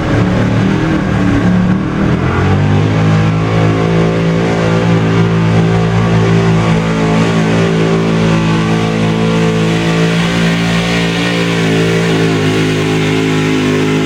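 Four-wheel-drive pulling truck's engine held at full throttle during a pull, a loud steady drone. The pitch climbs over the first two seconds, holds level, then falls away at the very end as the run ends.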